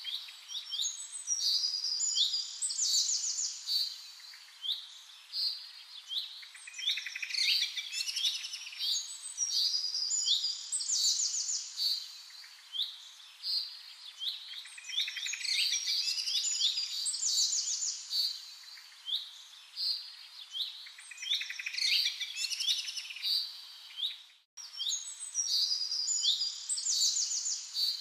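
Birds chirping and singing: short chirps and fast trills, repeating in a similar sequence over and over, with a split-second break about three-quarters of the way through.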